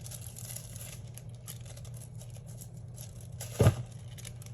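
Sticker sheets and paper pages rustling and crinkling as they are handled and leafed through, with one dull thump about three and a half seconds in, louder than the rest.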